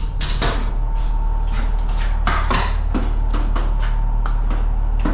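A run of sharp, irregular knocks and clatters, about a dozen in five seconds, over a steady low hum.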